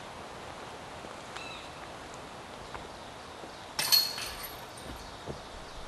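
A disc golf disc striking a basket's chains, one sharp metallic clatter with a brief high ringing about four seconds in, over quiet woodland air.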